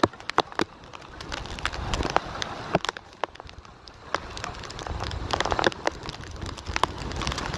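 Heavy cold rain falling, the drops striking close by in many irregular sharp ticks over a steady hiss, with gusty wind rumbling on the microphone, strongest about five seconds in.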